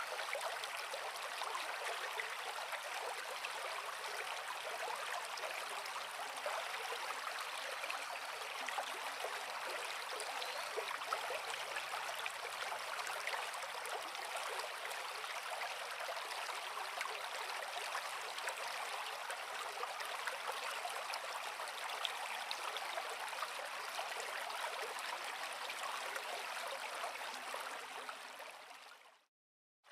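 Creek water flowing over rocks with a steady rushing and babbling. It fades out to silence for a moment near the end.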